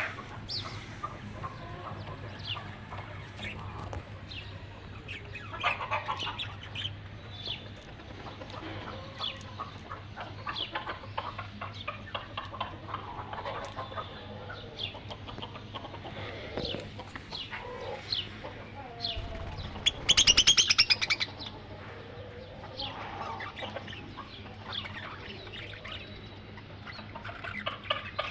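Birds calling and chirping, many short calls throughout, with a loud, rapid rattling burst lasting over a second about twenty seconds in.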